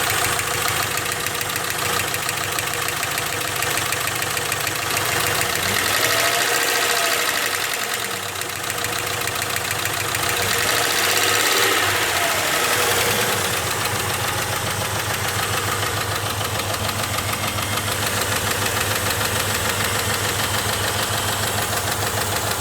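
Jeep engine running at idle with a fast, even rhythmic pulse, revved up and back down twice, about a quarter and about halfway through.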